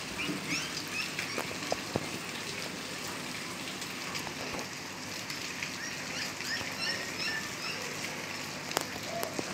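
Steady rain falling, with a few sharp drips, while small birds chirp repeatedly in short calls.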